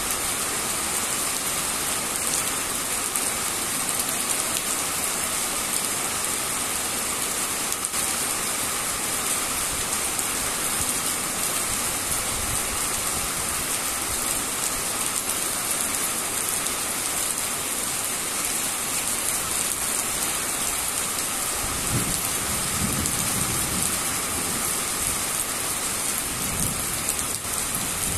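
Steady rain falling, an even hiss that holds at the same level throughout. A low rumble rises under it for a few seconds about three-quarters of the way through.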